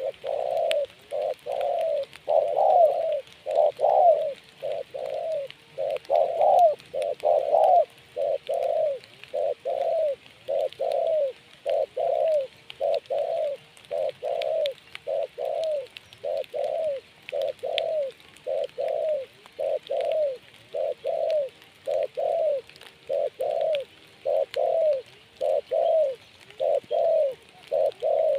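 Spotted dove (tekukur) cooing in a long, steady run of short falling coo notes, about three every two seconds.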